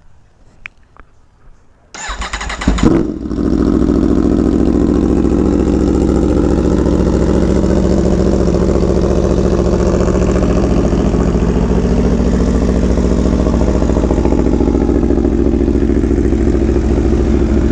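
Aprilia Tuono V4 1100 Factory's V4 engine, breathing through an SC Project CR-T exhaust, cranked on the starter about two seconds in, catching with a brief blip of revs, then idling steadily. A few faint clicks come before the start.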